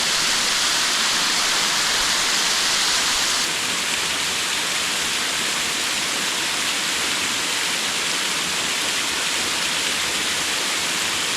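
Vaddi Falls waterfall: a steady rush of falling water, a little softer about three and a half seconds in.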